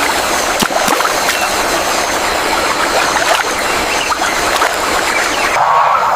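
Rushing river water with scattered sharp splashes and clicks; the sound changes abruptly about five and a half seconds in.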